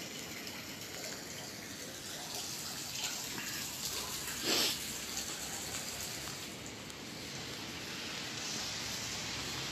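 Steady rain falling on wet asphalt, an even hiss of drops, with one short, louder burst of noise about halfway through.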